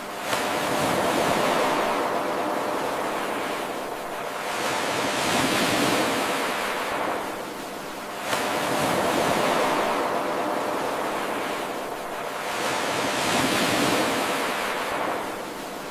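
Ocean waves washing in and out, a surf noise that swells and ebbs about every eight seconds. It is a short wave recording looped over and over, so each cycle restarts with an abrupt jump in level, twice here.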